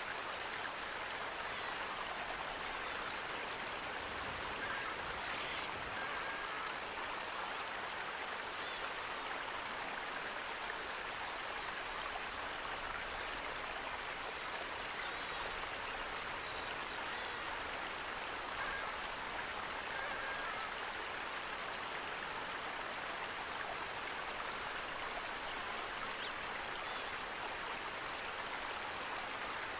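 Running water flowing steadily, an even rushing sound like a stream.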